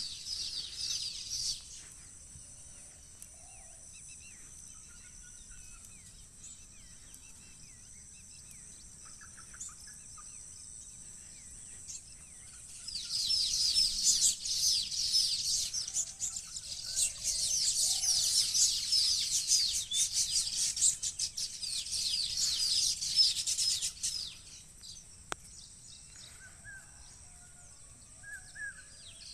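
Many small birds chirping together in dense, rapid chatter: a brief burst at the start, then a loud stretch of about ten seconds from roughly halfway in. In the quieter stretches a steady high tone and a few faint, lower calls remain.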